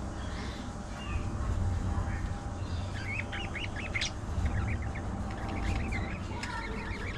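Budgies chirping in quick runs of short high notes from about three seconds in, over a steady low background rumble.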